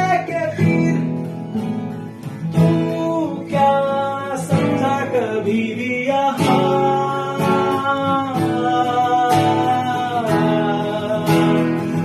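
Acoustic guitar strummed in a steady rhythm under a voice singing long, sliding held notes in a Hindi rock ballad.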